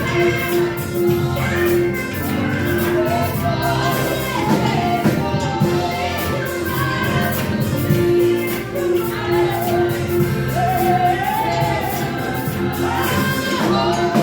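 Church praise-and-worship song: several voices singing together over instrumental accompaniment with a steady percussion beat.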